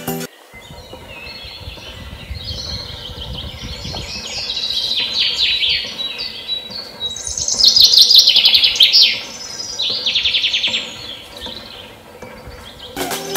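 Birds chirping in runs of quick, repeated downward-sweeping notes, loudest about eight seconds in, with a low rumble under the first few seconds.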